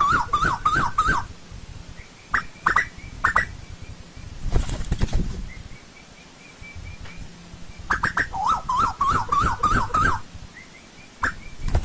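Asian koel calling: a fast series of rising-and-falling notes, about six a second, at the start and again about eight seconds in, with a few short sharp calls between.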